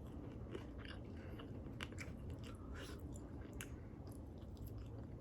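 Soft chewing of crispy air-fried chicken wings close to the microphone, with scattered sharp crunches of the crisp skin.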